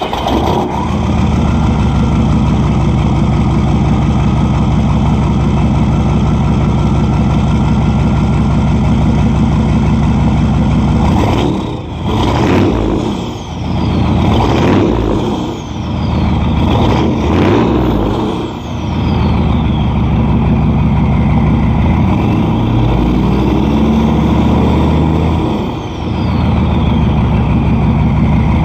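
Chevrolet 6.5-litre turbo-diesel V8 running loud through a 4-inch straight-pipe exhaust, idling just after a start. About a dozen seconds in it is revved several times in quick succession, each rev followed by a high falling whine, then it settles back to a steady idle.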